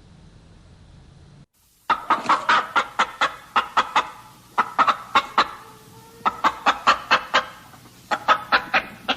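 Birds giving rapid series of short, sharp calls, about five a second, in four bursts separated by brief pauses.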